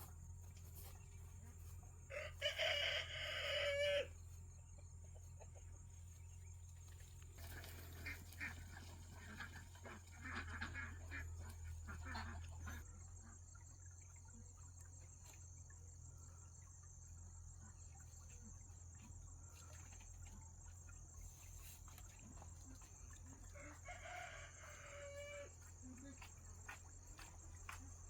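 A rooster crows twice: a loud crow about two seconds in and a fainter one near the end. A steady high insect trill runs underneath.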